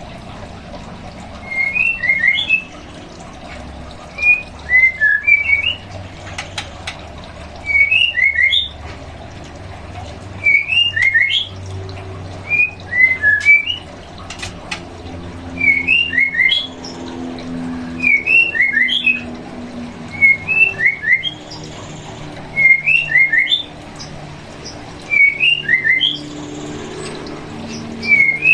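White-rumped shama (murai batu) calling over and over: a short phrase of three or four quick, rising whistled notes, repeated about every two and a half seconds.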